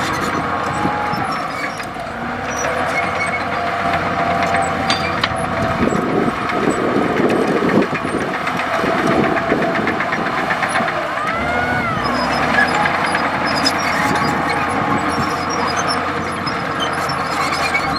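Komatsu D65E bulldozer's diesel engine running steadily under work, with a dense rattle of knocks that thickens in the middle. A short squeal rises and falls about twelve seconds in.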